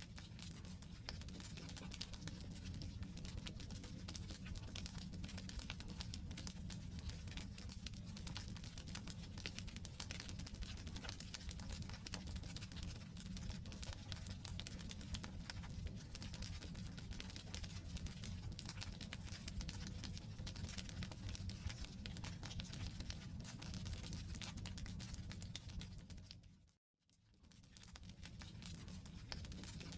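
Wood campfire burning with dense, irregular crackling and popping over a steady low rumble. About 27 seconds in the sound fades out to silence and fades back in.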